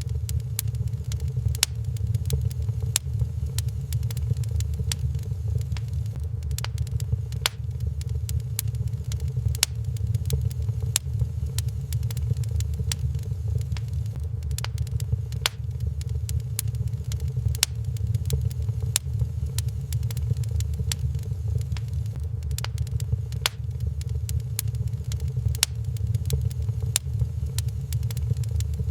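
Wood fire in a fireplace crackling, with frequent sharp, irregular pops over a steady low rumble.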